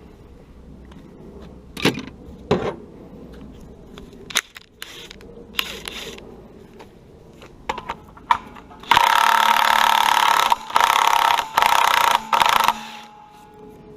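A few light knocks and clicks, then a loud power tool running in four bursts over about four seconds, each starting and stopping sharply.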